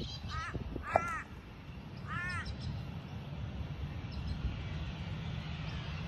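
A bird calls three times in the first two and a half seconds, each call a short note that rises and falls in pitch, over a steady low rumble.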